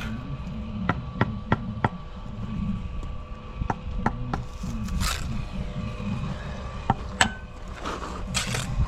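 Bricklaying trowel work: sharp taps and knocks of a steel trowel on brick, four in quick succession about a second in and more later, with short scrapes of mortar being cut and spread.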